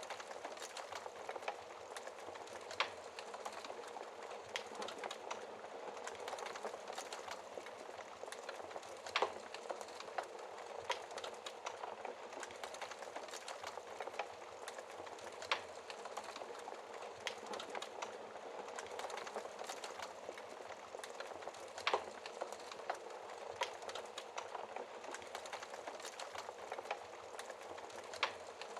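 Wood fire crackling in a fireplace: a steady soft hiss of burning with frequent small crackles and a few louder pops.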